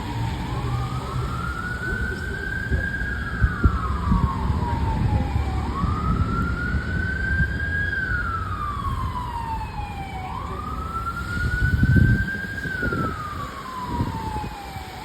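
Fire engine's Federal Q mechanical siren wailing at full power, winding up and sliding back down about every five seconds, over a heavy engine rumble. The rumble swells briefly around twelve seconds in.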